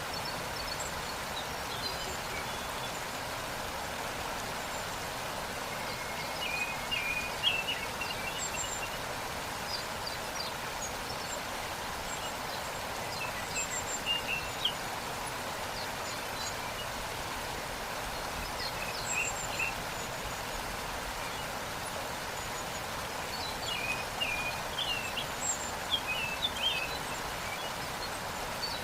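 Waterfall rushing steadily, with small birds chirping in short bursts several times over it.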